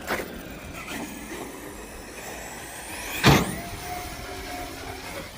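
Electric RC stunt truck running over a skatepark surface, its motor whine rising sharply in pitch as it launches, then a loud landing crash a little past three seconds in.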